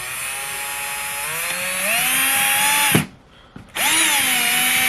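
Power drill driving a screw in two runs: the motor whine climbs in pitch for about three seconds and stops abruptly, then starts again a second later and holds a steady pitch.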